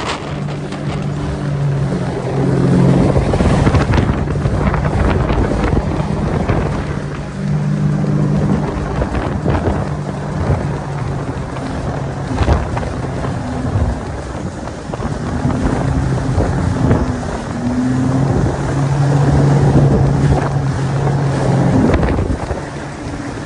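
A small boat's engine running under way, its hum swelling and easing several times, with wind buffeting the microphone.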